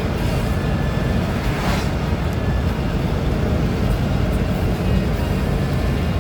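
Steady low rumble of road and engine noise inside the cab of a truck driving along.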